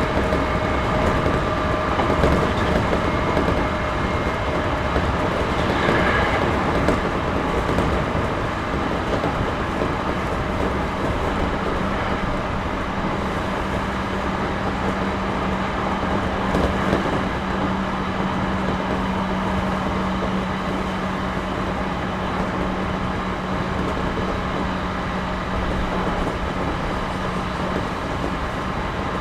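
Interior running sound of a JR Series 211-5000 electric multiple unit: steady rolling noise of the train on the rails. A few steady tones fade out in the first few seconds, and a steady low hum comes in about twelve seconds in and drops away near the end.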